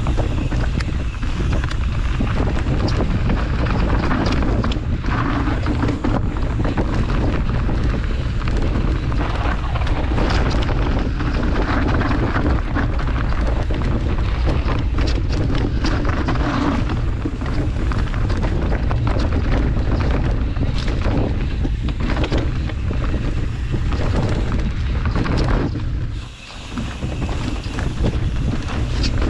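Wind rushing over the microphone of a mountain bike riding fast down a trail, with frequent knocks and rattles. The noise eases briefly near the end.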